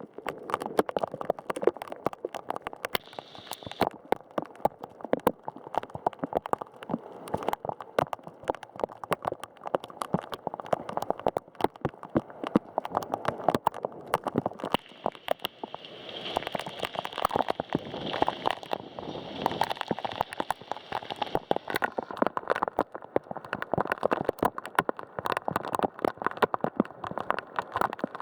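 Heavy rain striking a hard surface close to the microphone: a constant hiss packed with dense, irregular drop impacts.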